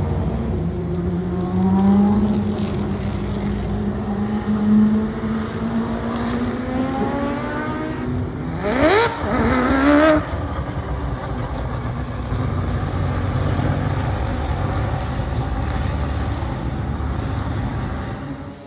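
Four-rotor Mazda rotary race car engine accelerating on track, its pitch climbing slowly for several seconds. About nine seconds in, a car passes close, revving hard with a quick drop in pitch and climb again like an upshift, the loudest moment.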